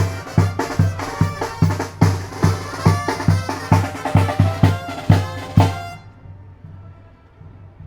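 Tamborazo music: a bass drum beating about two and a half times a second with snare under brass, cutting off suddenly about six seconds in, leaving a faint low hum.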